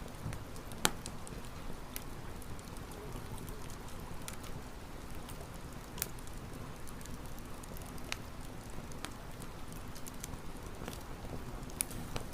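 Campfire burning with a steady soft crackle and scattered sharp pops from the wood, the loudest pop about a second in.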